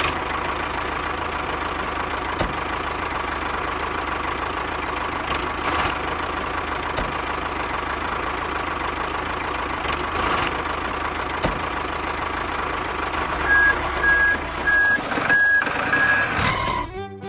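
A truck engine running steadily. Near the end a reversing alarm joins it, beeping repeatedly in short, evenly spaced beeps.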